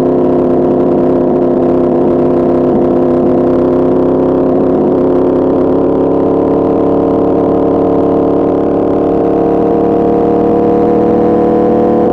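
2024 Yamaha R1's crossplane inline-four engine running through an Arrow Pro Racing exhaust at a steady engine speed, its pitch climbing slowly and gently.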